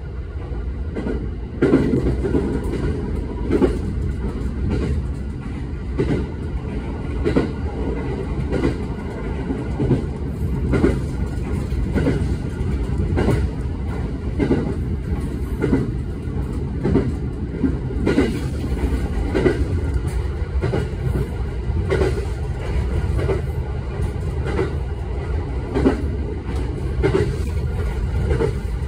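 Running noise heard inside a moving electric passenger train: a steady low rumble, with the wheels clicking over the rails about once a second.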